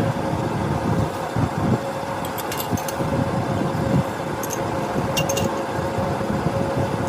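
A workshop machine running with a steady hum and a low rumble, with a few light metallic clinks.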